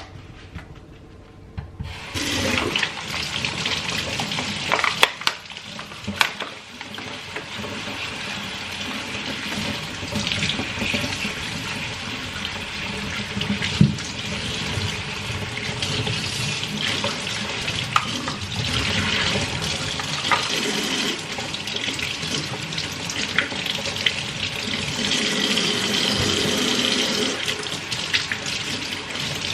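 Kitchen tap running into a sink, starting about two seconds in, with a few sharp clicks and knocks from things being handled in the sink.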